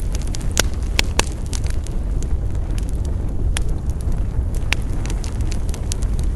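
Wood campfire burning, crackling and popping, with half a dozen louder sharp snaps scattered through over a steady low rumble.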